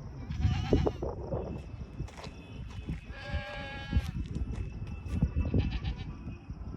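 Animal bleating: several calls, the clearest a held, wavering bleat of about a second a little past the middle, over a steady low rumble.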